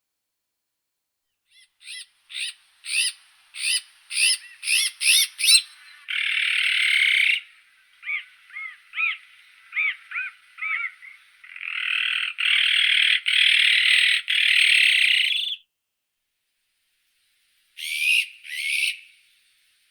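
Azure-winged magpie calling: a quickening, louder series of short notes, then harsh rasping screeches with softer short notes between them, and two short calls near the end.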